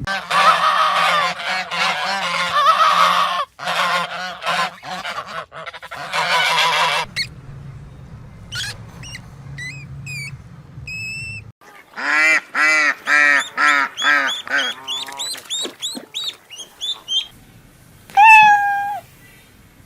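Birds calling: first a dense, harsh chorus, then faint high chirps, then a run of honking calls about three a second, and one loud call that falls in pitch near the end.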